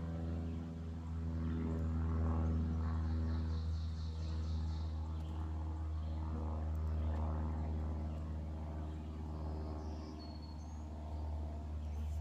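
Steady low mechanical hum with a constant pitch, with faint high bird chirps now and then.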